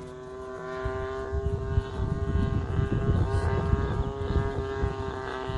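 Single-cylinder two-stroke DLE 35 gas engine of an RC Van's RV-8 plane in flight, holding a steady pitch and getting louder about a second in, with gusty wind rumbling on the microphone.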